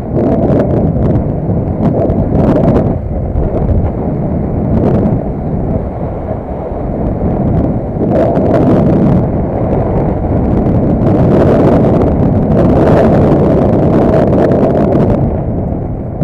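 A vehicle on the move, with heavy wind buffeting the microphone over a steady low road rumble and a few brief clicks or knocks.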